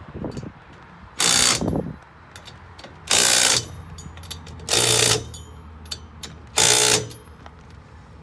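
Impact wrench run in four short bursts about two seconds apart, each a half-second rapid hammering rattle over a motor hum: nuts being run down and snugged, typical of tightening a leaf-spring U-bolt.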